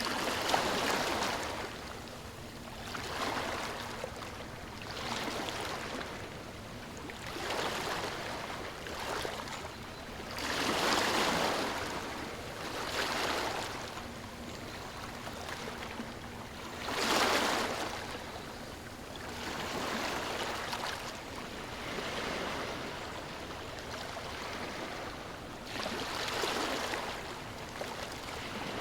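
Ocean waves breaking and washing up the shore in repeated swells every few seconds, over a steady wash of surf.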